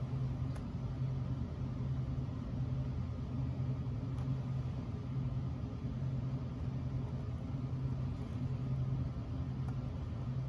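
Steady low mechanical hum of room background noise, with a few faint small clicks.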